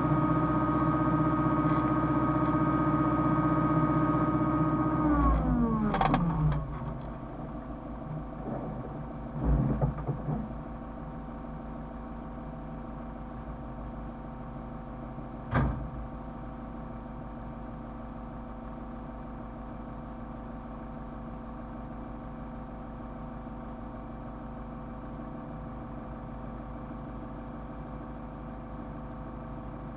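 Hyundai excavator's diesel engine running at high revs, then dropping in pitch to idle about five seconds in. A few knocks and clunks follow, then it idles steadily.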